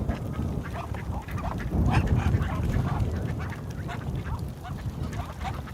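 Ducks quacking: many short calls in quick succession, some overlapping, over a steady low rumble.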